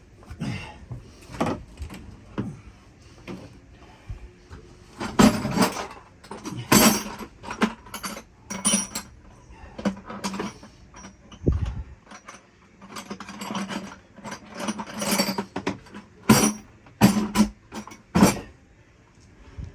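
Hand tools clinking, knocking and scraping against metal fittings in an engine compartment, an irregular clatter of sharp strikes with brief ringing, as cable connections are worked loose by feel.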